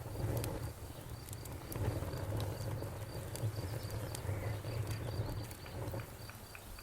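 Bonfire crackling with scattered sharp pops over a low rumble of burning wood, while crickets chirp in a steady high pulse about three times a second.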